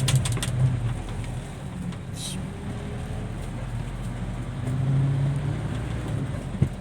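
Hino dump truck's diesel engine running with a steady low drone that eases off after about a second and swells again around five seconds in, with a brief hiss about two seconds in.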